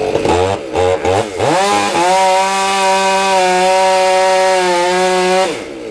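Two-stroke chainsaw blipped up and down a few times, then held at full throttle for about three and a half seconds before it is let off near the end.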